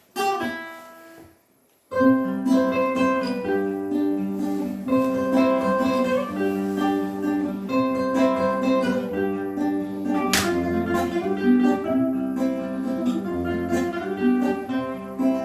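Instrumental introduction of a folk song played on acoustic guitar and other plucked string instruments, starting about two seconds in after a brief pause, with one sharp hit about ten seconds in.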